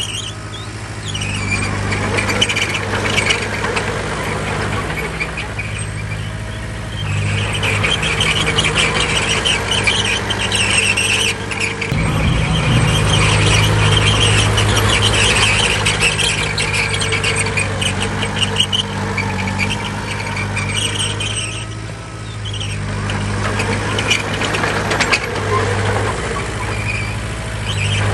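Bulldozer's diesel engine working steadily under load, with a high squeal and rapid clatter from the machine; the engine grows louder about twelve seconds in and eases off again around twenty-two seconds.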